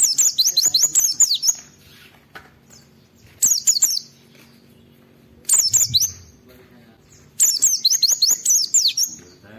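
White-eye (pleci) singing: four quick bursts of rapid, high, twittering chirps, each lasting from half a second to about a second and a half, with short pauses between them.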